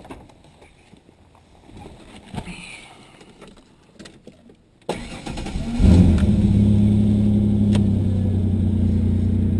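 A few faint clicks, then about five seconds in a Ford Ranger pickup's engine cranks briefly, catches with a quick rev and settles into a steady idle, started cold in freezing weather.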